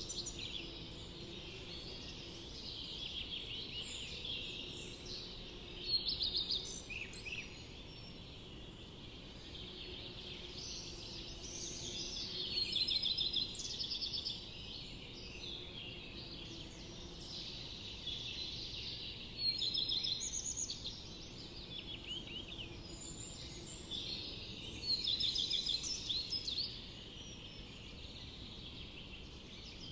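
Forest songbirds singing: overlapping chirps and quick trills, with a louder burst of song about every six seconds.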